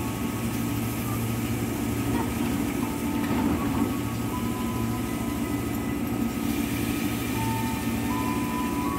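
Electric commuter train standing at the platform, its onboard equipment giving a steady hum, while its sliding doors shut within the first few seconds.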